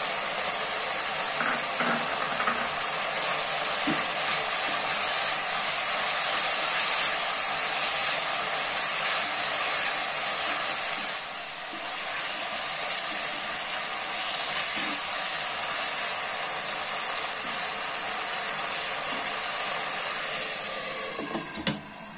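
Chicken pieces with chopped onion and capsicum sizzling as they stir-fry in sauce in a nonstick wok, with a few light knocks of the spatula. Near the end a glass lid is set on the wok with a couple of sharp clinks, and the sizzle begins to fade under it.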